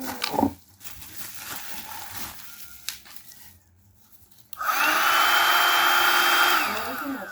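Vacuum cleaner motor switched on with a sudden start, running with a steady high whine for about two seconds, then switched off and winding down in falling pitch near the end.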